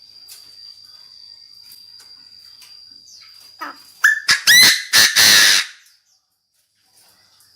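Chinese francolin giving its loud, harsh decoy call, a short burst of grating notes about four seconds in that cuts off suddenly. A faint steady high tone runs underneath before the call.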